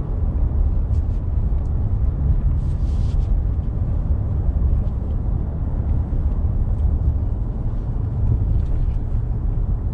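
Steady low rumble of road and engine noise heard from inside the cab of a 2022 Nissan Frontier pickup cruising on the road.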